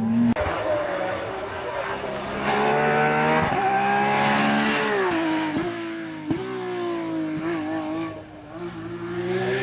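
Porsche competition car's engine under hard acceleration, its pitch climbing and then dropping in quick steps at gear changes as the car runs the stage.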